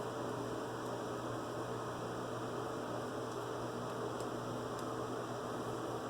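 Steady electrical hum with a background hiss, unchanging throughout, with a few very faint ticks.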